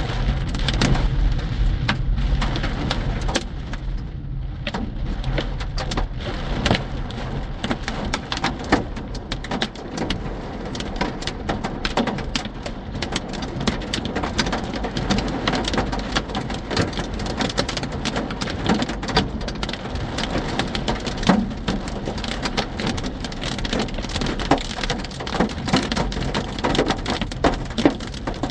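Hailstones and heavy rain pelting a vehicle, a dense and continuous clatter of hard hits over the hiss of the rain.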